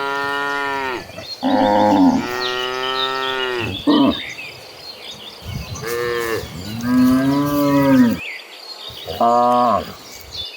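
Cattle mooing: a run of about eight loud moos from several cows, differing in pitch and some following close on one another.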